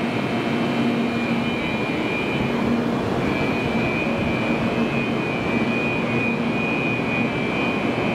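Kyushu Shinkansen train standing at the platform, its equipment giving a steady whirring hum, with a thin high steady tone over it that breaks off briefly about three seconds in.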